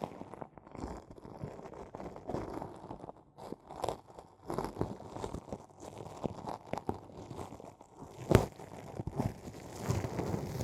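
Close-up ASMR ear-cleaning sounds: irregular crunchy scratching and crackling in an ear canal, with the sharpest crackle about eight seconds in.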